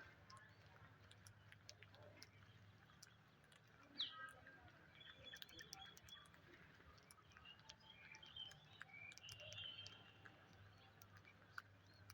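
Faint parrot chirps and short calls, with scattered light clicks. One sharper call stands out about four seconds in.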